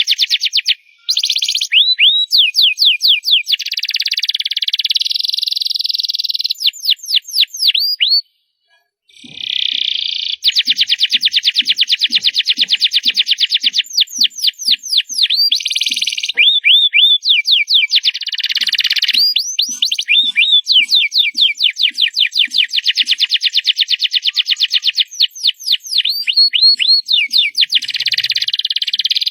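Domestic canary singing loud: long runs of rapid rolling trills broken up by series of quick swooping notes, with a brief pause about eight seconds in.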